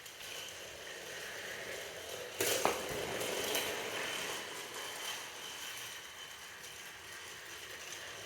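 A battery-powered toy train's small motor and gears whirring as it runs along its track. It gets louder about two and a half seconds in, with a sharp click.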